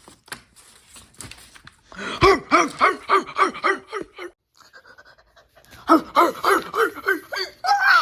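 A dog panting in two runs of quick, voiced pants, about four a second, with a short pause between the runs.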